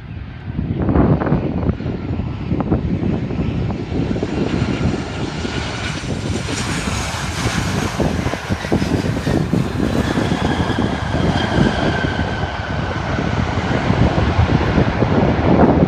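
Airplane passing close by: loud engine noise that swells toward the middle, with a high whine that falls in pitch as the plane goes past.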